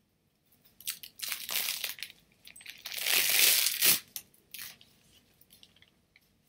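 Crinkling, crunching handling noise as acrylic-mounted art prints are moved about, loudest about three to four seconds in, followed by a few light clicks.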